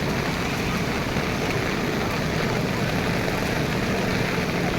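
Steady rushing noise with no breaks.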